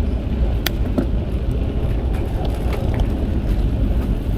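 Wind rumbling on an action camera's microphone with tyre and road noise from a bicycle ride, broken by a few sharp rattling clicks, the loudest less than a second in.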